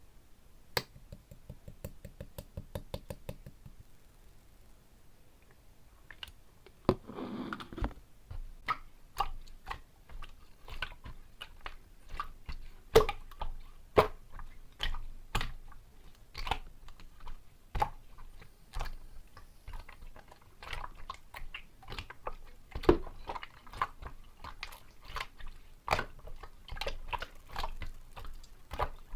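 Clear slime being worked by hand, making repeated sticky clicks and wet pops. Near the start there is a quick run of clicks, and a squelch comes about seven seconds in.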